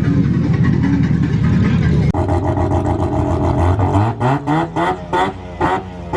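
A steady low rumble, then about two seconds in a car engine revs up with rising pitch and goes into a string of short, rapid revs, about two or three a second, each cut off and picking up again.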